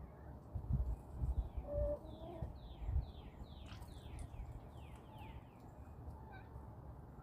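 A small songbird sings a quick run of about ten high, downward-sliding notes while backyard chickens give a short low note. Low thuds come in the first few seconds.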